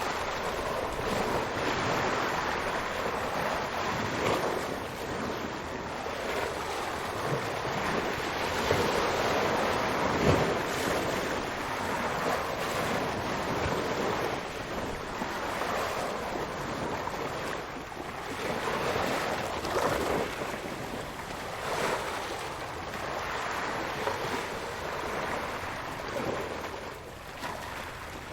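Ocean surf: waves breaking and washing in a continuous rushing roar that swells and eases every few seconds, loudest about ten seconds in.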